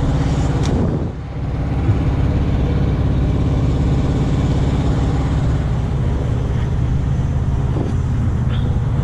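Large truck's diesel engine idling steadily at close range, a low even drone, with a brief dip in level about a second in.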